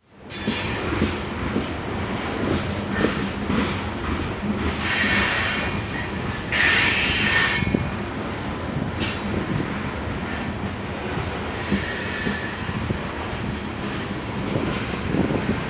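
Loaded coal train rolling past, a steady rumble of wheels on rail. The wheels squeal in short spells, loudest about five and seven seconds in.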